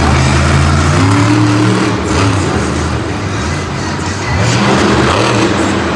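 Storm Damage monster truck's supercharged methanol V8 engine revving, its pitch climbing and dropping a few times.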